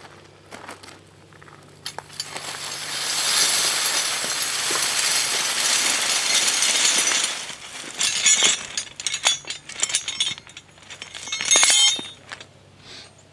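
A metal harrow section scrapes along the ground for about five seconds. Then come a run of sharp metallic clanks and clinks as the harrow's pieces knock together.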